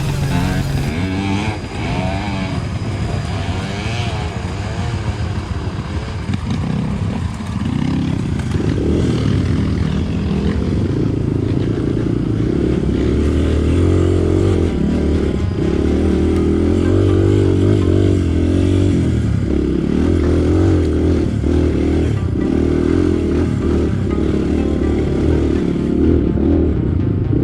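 Dirt bike engine running as it is ridden, rising and falling in pitch with the throttle in the first few seconds, then pulling steadily and loudly under load.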